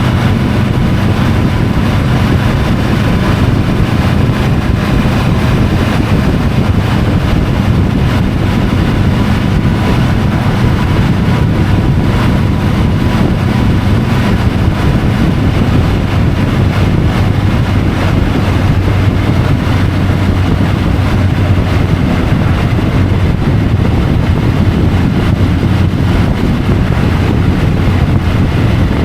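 Triumph Tiger 850 Sport's three-cylinder engine running steadily on the move, with wind noise over the microphone.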